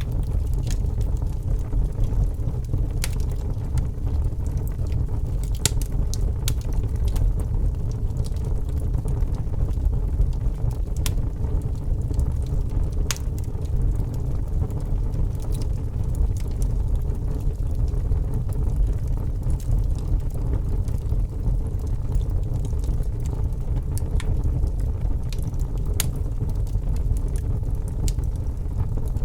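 Wood fire burning in a fireplace: a steady low rumble with sharp crackles and pops scattered irregularly through it.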